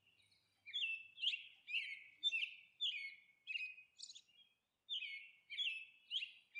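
A bird chirping: a run of short, high chirps, about two a second, with a brief pause about four seconds in.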